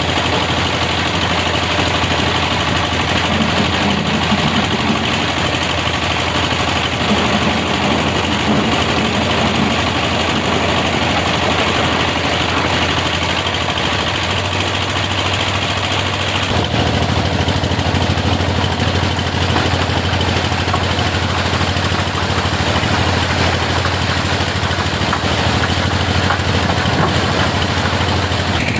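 Excavator's diesel engine running steadily, with two brief swells a few seconds in.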